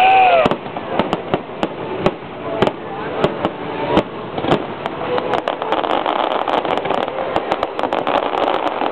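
Fireworks going off in a rapid, irregular series of sharp bangs and crackles, with the loudest bang about four seconds in.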